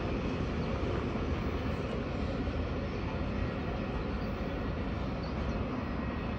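Steady low rumble of a Norfolk Southern double-stack intermodal freight train's wheels rolling on the rails as the train moves away.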